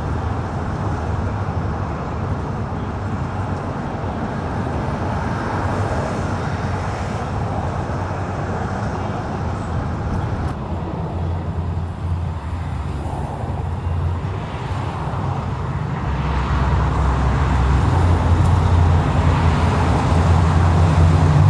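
Car engine running with a steady low rumble, growing louder over the last few seconds.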